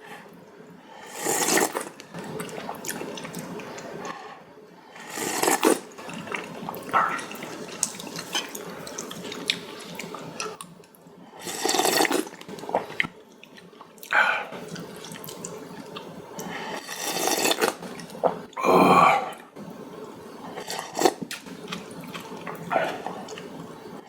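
Noodles and soup broth being slurped loudly, in about six bursts a few seconds apart, with quieter eating noises between.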